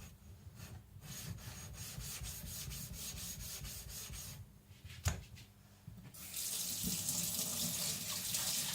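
Tap water running onto an Atoma diamond flattening plate being rinsed clean, starting about six seconds in. Before it come soft rubbing strokes and a single sharp knock about five seconds in.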